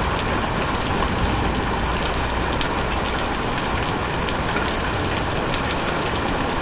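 Heavy thunderstorm rain with small pea-size hail coming down: a steady hiss of rain scattered with sharp ticks of hailstones striking.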